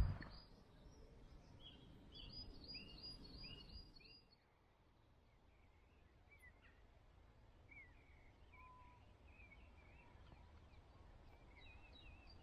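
Faint birdsong: small birds chirping, with a quick run of repeated notes in the first four seconds, then scattered single chirps over quiet outdoor background.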